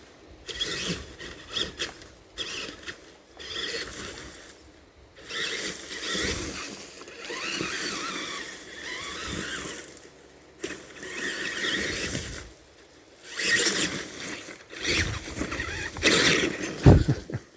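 Tamiya TXT-2 RC monster truck's motors whining in repeated bursts, rising and falling in pitch, as it pushes through weeds and sticks, with crackling of brush under the tyres and a thump near the end.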